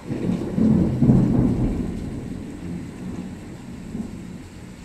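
A thunderclap breaks suddenly, loudest about a second in, then rumbles away over the next few seconds, over the steady hiss of heavy rain.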